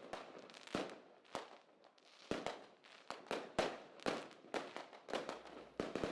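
Fireworks going off: a string of sharp, irregular bangs and cracks, about three a second.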